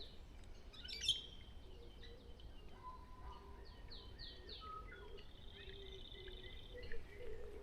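Several songbirds chirping and singing faintly, in short repeated chirp notes with a few clear whistled notes, and a quick trill about six seconds in.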